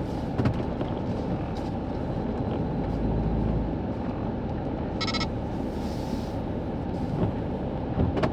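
Steady road and engine rumble inside a car driving through a hailstorm, with a few sharp knocks of hailstones striking the car. A short beep sounds about five seconds in.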